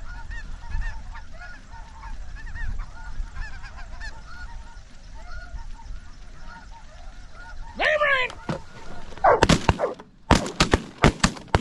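A flock of snow geese calling overhead, many overlapping high calls over a low rumble of wind. Near the end a shout is followed by a rapid string of loud shotgun shots.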